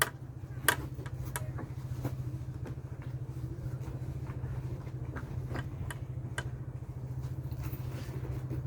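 An engine idling steadily, with scattered light clicks and knocks over it.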